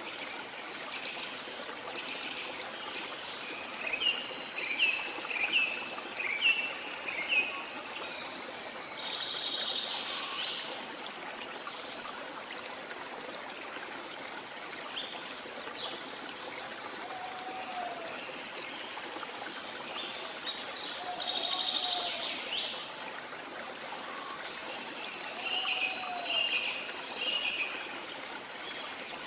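Steady rush of waterfall water with birds singing over it: a run of quick chirps about four seconds in, fuller bursts of song twice more, and a short low whistle that repeats every few seconds in the second half.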